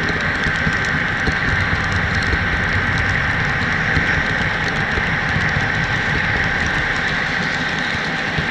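HO-scale model train running along its track, heard from a camera riding in the train: a steady rolling rattle with fine ticking from the wheels on the rails and a steady high whine.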